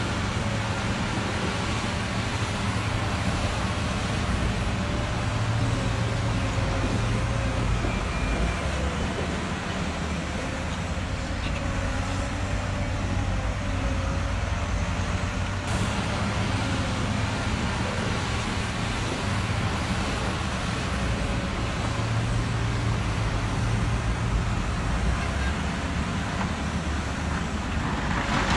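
Truck engine running steadily at low revs, with a faint wavering whine above it. Just before the end a loud rushing noise sets in.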